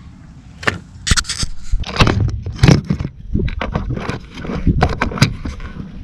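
Irregular scraping and clattering of metal parts and tools being handled during work on an engine, a string of sharp knocks and scrapes over several seconds.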